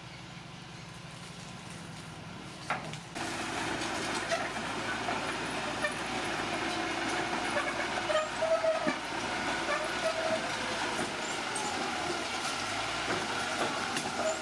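Bulldozer running with a low steady engine hum, then about three seconds in it gets louder, with the metal crawler tracks clanking and giving short squeals.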